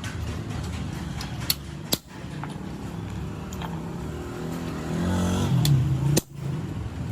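An engine running steadily, growing louder with its pitch shifting about five seconds in, with a few sharp knocks around it.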